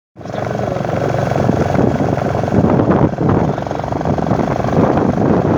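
Motorcycle engine running steadily while riding, with wind rushing over the microphone. The sound starts abruptly just after the beginning.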